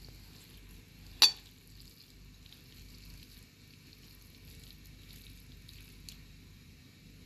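Faint steady crackling hiss, with one loud sharp click about a second in and a lighter click near the end.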